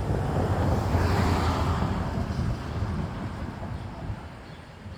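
A vehicle going by on the street, its noise swelling about a second in and then fading away, over a low rumble of wind on the microphone.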